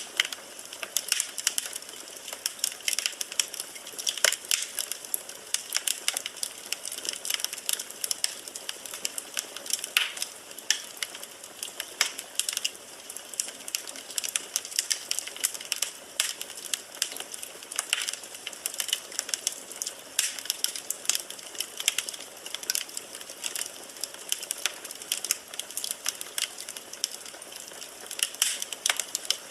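Burning firewood in a fireplace crackling: a constant stream of sharp pops and snaps, several a second, a few louder than the rest, over a soft steady hiss of flame.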